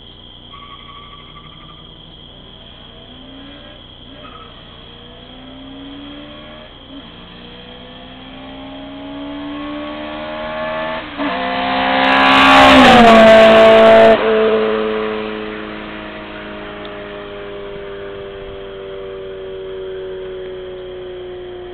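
Toyota Corolla XRS with a 2ZZ-GE four-cylinder engine and aftermarket intake, header and exhaust, accelerating hard from a standstill. Its revs climb and drop back at each upshift, first through fourth gear. The car grows loud as it passes about two thirds of the way in, dropping in pitch as it goes by, then fades into the distance still pulling.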